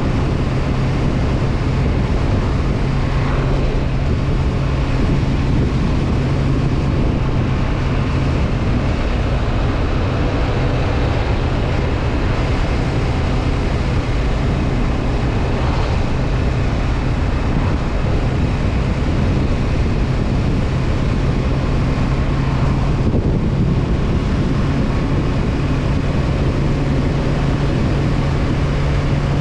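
Honda CB500F's parallel-twin engine running at a steady cruise, its low drone holding an even pitch, with wind rushing over the camera microphone.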